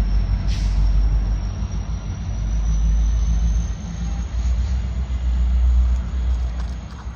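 Low rumble of a moving heavy vehicle that swells and fades, with a thin steady high whine slowly rising in pitch and a brief hiss about half a second in.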